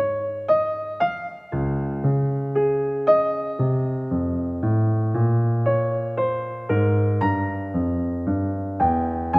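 Soft background music on electric piano: a slow, gentle melody of single struck notes over sustained low chords.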